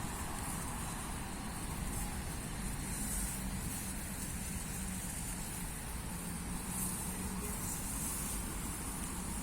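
Rice paddy ambience: insects trilling high and steadily, the sound swelling and fading every second or so, over a steady low rumble.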